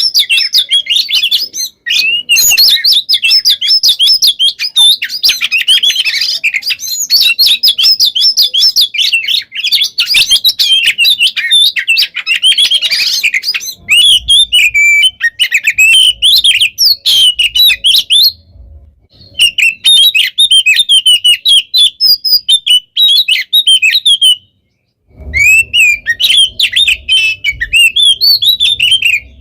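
Oriental magpie-robin (kacer) singing a rapid, almost unbroken stream of sharp whistled notes and trills. This is the dense 'gacor konslet' song style that bird keepers prize. It breaks off briefly twice, about two-thirds of the way through and again near the end.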